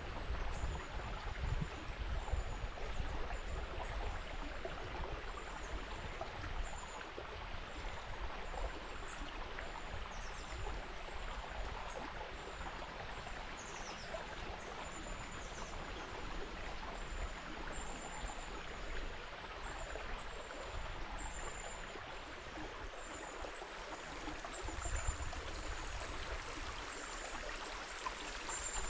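River water flowing steadily, a continuous rushing and trickling, with a thin high chirp repeating about once a second.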